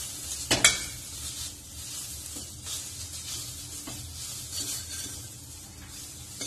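Onion, ginger-garlic and ground spice masala sizzling in hot mustard oil in a stainless steel pressure cooker while a steel spoon stirs and scrapes it, with a sharp clink of spoon on pot about half a second in and a few lighter taps after. The spices are being roasted (bhuna) in the oil.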